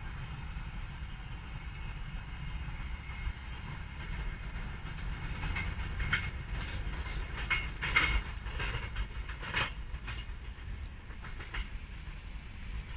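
A slow-moving train on the rails: a steady low rumble, with a run of short squeals and clicks from the wheels on the track from about five seconds in, loudest around eight seconds.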